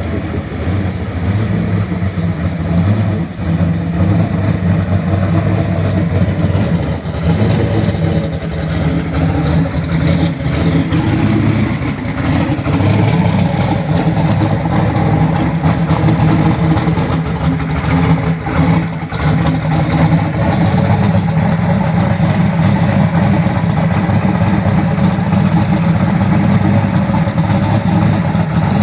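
A motor vehicle's engine running steadily, its pitch holding fairly even with small rises and dips.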